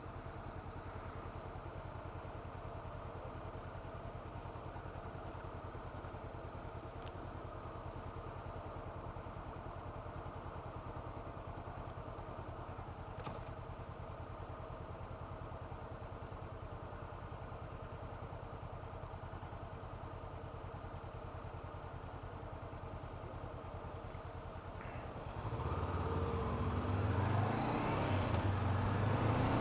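2017 Honda CB500F's parallel-twin engine idling steadily. About 25 seconds in it revs up and the bike pulls away, louder, with wind noise on the helmet microphone.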